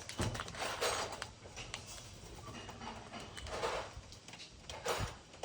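Ringneck parrots giving a few short, harsh calls over a steady background hiss.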